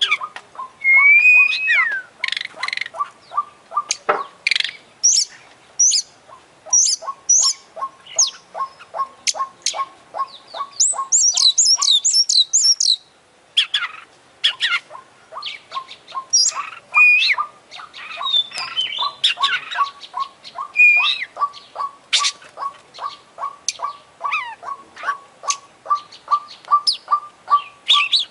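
Oriental magpie-robin (kacer) singing a loud, varied song of whistles, trills and sharp chirps, packed with mimicked calls of other birds. Under it runs a steady series of short chips about three a second.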